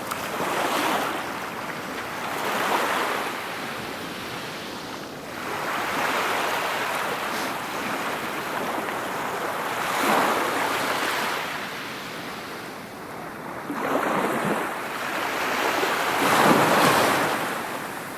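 Sea waves washing in and drawing back, coming in repeated swells every few seconds, with some wind on the microphone.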